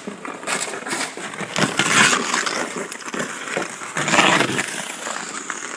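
Ice skate blades scraping and gliding on a sheet of storm ice, in a few rough hissing strokes, the loudest about two and four seconds in.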